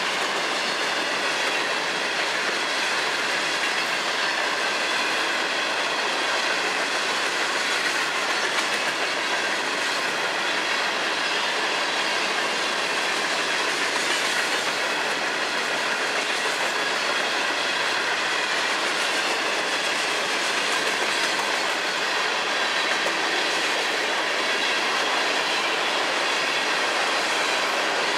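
Freight cars of a long freight train rolling past close by: a steady rumble and rush of steel wheels on the rail, with faint high steady squeal tones from the wheels.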